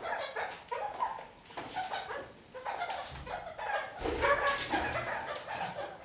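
Red-crowned kakariki chattering and warbling: a steady run of short, quick, changing notes, loudest a little past the middle.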